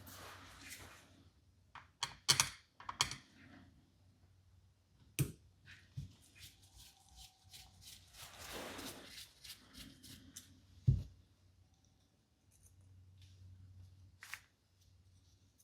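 Small carburetor parts being handled by hand: scattered light clicks and taps, a quick cluster of them early on, soft rustling between, and one duller knock about two-thirds of the way through.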